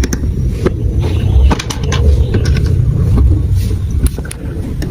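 Marbles rolling down a plastic marble-run track: a continuous low rumble with scattered sharp clicks as they strike the pieces.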